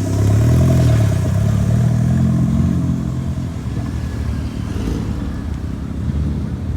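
A vehicle engine accelerating hard away from a car meet: its note rises and falls in the first few seconds, loudest about a second in, then drops to a lower, fading rumble.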